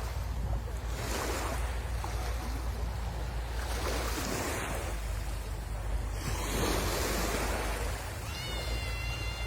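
Sea waves washing onto the shore, swelling and easing every few seconds, with wind rumbling on the microphone. A brief high whistle-like tone sounds near the end.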